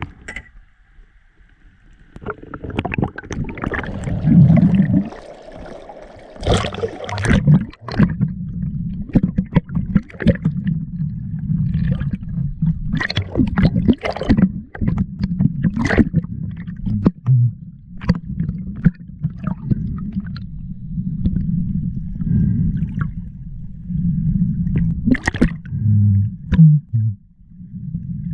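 Water rushing and gurgling around a spearfishing diver, a low steady rush broken by many sharp clicks and knocks.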